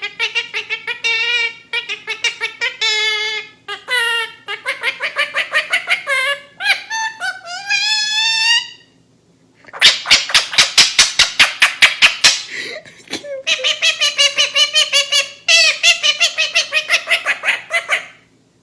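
Parrot vocalizing in bouts of rhythmic, laugh-like cackles with a wavering pitch, broken about ten seconds in by a run of rapid sharp pulses, about eight a second.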